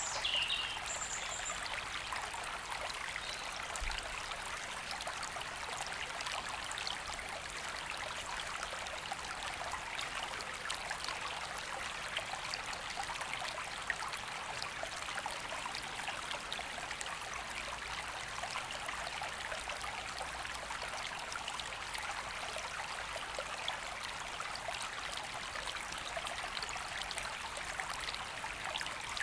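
River water flowing steadily, a continuous rushing and trickling. A bird calls briefly right at the start.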